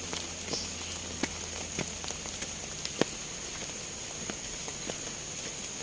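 Forest ambience: a steady high-pitched insect drone, with scattered irregular crackles and clicks of footsteps on dry leaf litter.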